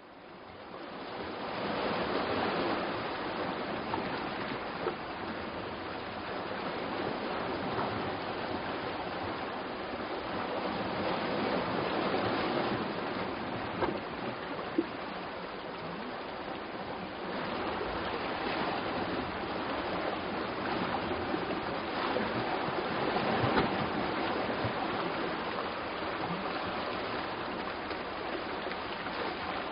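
Sea waves washing on the shore: a steady rushing noise that fades in at the start and swells and eases slowly, about every ten seconds.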